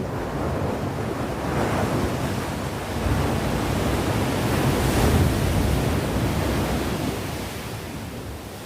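Sea waves breaking on the shore: a wash of surf that swells over the first few seconds, peaks about five seconds in, and ebbs away near the end, with some wind on the microphone.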